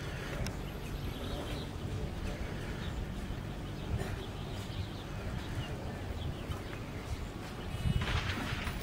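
Faint bird chirps over a steady low outdoor hum, with no gunshots.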